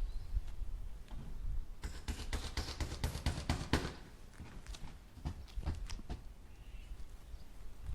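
Hammer striking nails into wood: a quick run of strikes about two seconds in, then a few scattered knocks, over a low rumble.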